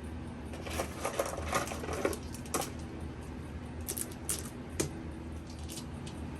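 Scattered light clicks and taps from hands working with hot glue craft materials, in two short clusters over a steady low hum.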